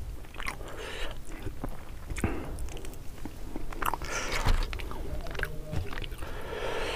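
Close-miked chewing and biting on spicy tilapia (mujair) eaten by hand, with irregular crunchy clicks.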